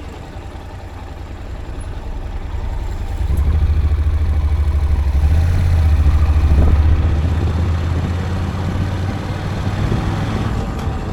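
Vehicle engine and road rumble while driving: a steady low drone that grows louder about three seconds in.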